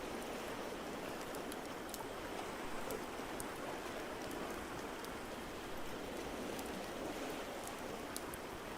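Ambience mix of a steady, even wash of water noise, rain-like with no swell, with scattered small crackling pops of a fireplace over it.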